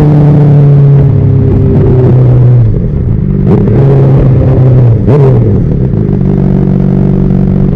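Honda CBR600RR's inline-four engine falling in pitch as the bike slows. Around the middle there are a couple of quick rises and drops in revs, then the engine settles to a steady tone.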